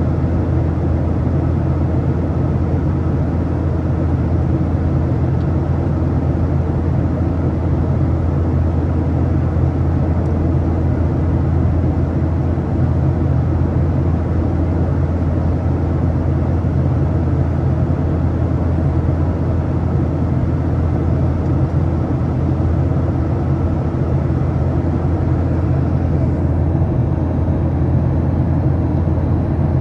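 Steady low drone inside the cabin of a Boeing 737-800, its CFM56-7B engines and the airflow heard from a window seat, unchanging throughout.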